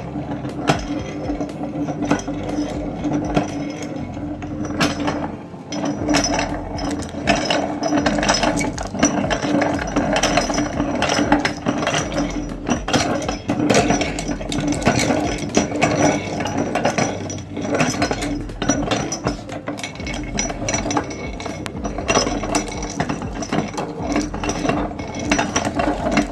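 Electric meat grinder running with a steady motor hum while it crunches spoons fed into it, with dense, irregular cracking and clicking throughout.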